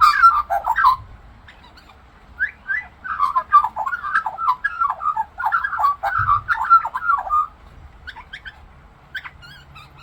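Australian magpie singing a fast warbling run of notes. There is a pause of about a second and a half after the first short burst, then a longer stretch of warbling, and a few scattered notes near the end.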